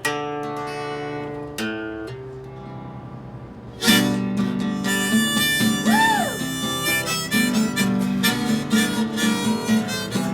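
Acoustic guitar strumming a few chords, then a harmonica joins from about four seconds in and plays a melody over the guitar, with one note bent up and back down around the middle.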